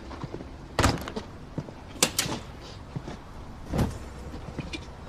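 A few sharp knocks or clacks, one about a second in, two close together around two seconds, and one near four seconds.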